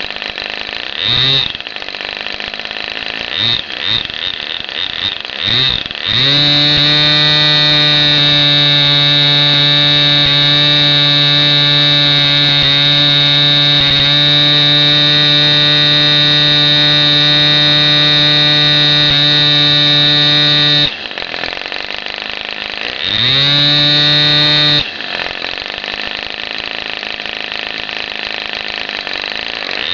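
Raduga-10 petrol engine firing in several short bursts, then running loud at a steady speed for about fifteen seconds before cutting out suddenly. It then runs again for about two seconds and stops.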